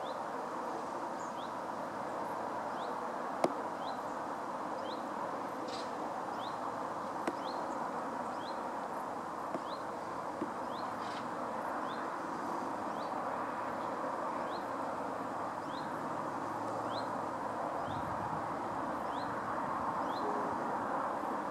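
A small bird repeats a short, rising high call about once a second over a steady rushing background noise. A single sharp click comes about three and a half seconds in.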